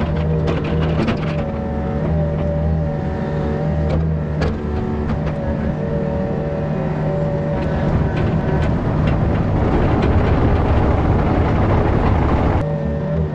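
Yanmar ViO50 mini excavator's diesel engine running under load, with a hydraulic whine that shifts in pitch as the controls are worked. Scattered cracks and knocks of brush and debris are being moved, and the sound grows louder and denser over the second half.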